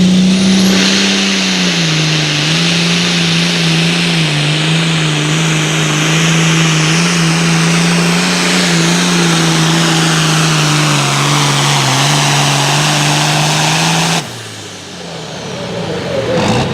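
Super Farm class pulling tractor's turbocharged diesel engine running flat out under load during a pull, holding a steady pitch with slight dips for about fourteen seconds. It cuts off abruptly, and another engine starts to rise near the end.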